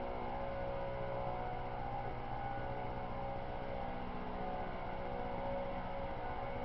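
A steady, even hum: several held tones over a wash of noise, with no change or break.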